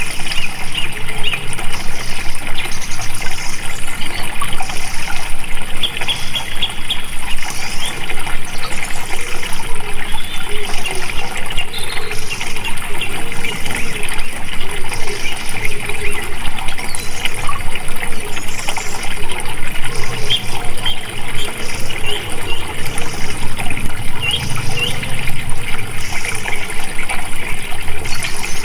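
Flowing water running and trickling steadily, with short bird chirps scattered through.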